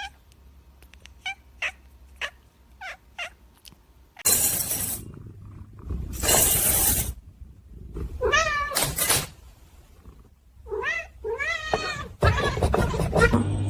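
Cats meowing and yowling in drawn-out, wavering calls. A string of short chirps comes in the first few seconds, and loud bursts of rushing noise come between the calls.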